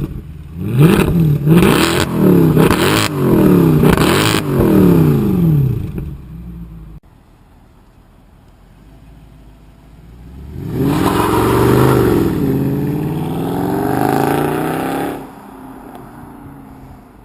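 Performance car engine blipped hard several times in quick succession, the revs rising and falling about once a second. After a quieter gap, a car accelerates hard for about five seconds, engine pitch climbing.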